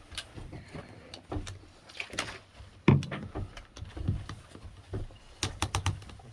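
Scattered clicks and knocks, with one louder thump about three seconds in and a quick run of sharp clicks near the end.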